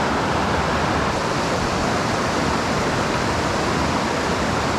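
Steady rushing of a small mountain creek's water over rocks, an even, unbroken wash.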